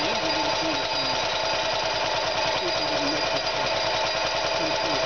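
1957 BMW Isetta single-cylinder four-stroke engine idling steadily: a rapid, even train of firing pulses with a steady whine from the spinning cooling fan. The owner says it runs much better with its ignition condenser remounted inside the fan housing.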